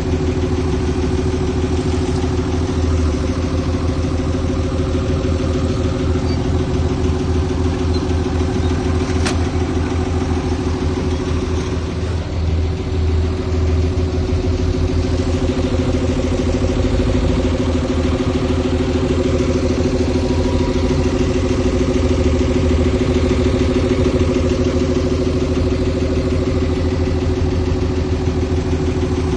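Diesel engine of a piece of heavy earthmoving machinery running steadily, with a pulsing low throb. A single sharp click about nine seconds in.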